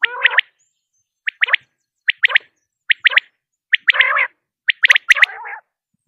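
Quail calling: short phrases of three sharp, quick notes repeated about once a second, some joined by lower, rougher notes.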